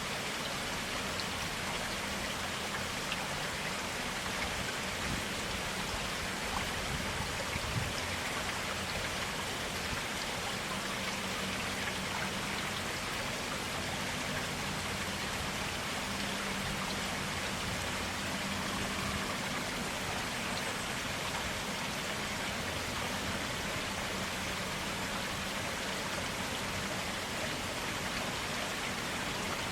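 Clear water running in a forest stream, a steady, even rush of water with no change throughout.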